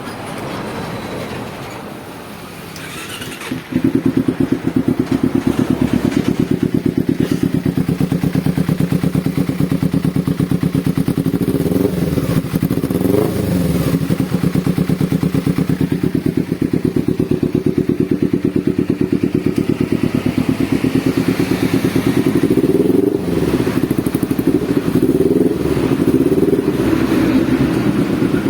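Kawasaki Ninja 250 fuel-injected parallel-twin engine, freshly swapped into the bike, starting about four seconds in and then idling steadily. The revs rise briefly twice, near the middle and about two-thirds of the way through.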